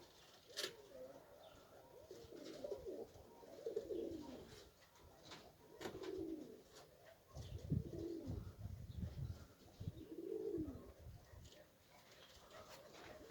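Domestic pigeons cooing, a series of soft rising-and-falling coos every second or two, with a low wind rumble on the microphone for a couple of seconds near the middle.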